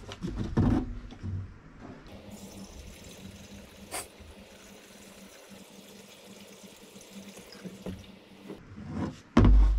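Gasoline pouring or trickling in a steady faint hiss, with a single click partway through. A loud low bump comes just before the end.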